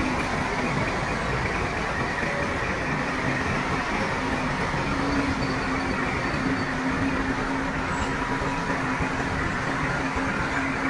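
Bulldozer's diesel engine running steadily, a continuous heavy drone with a steady low hum and dense mechanical rattle.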